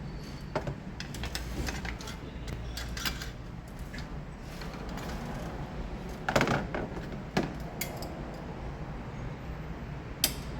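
Metal hand tools and parts clinking and knocking in scattered sharp clicks, with a louder cluster about six seconds in, over a steady low hum.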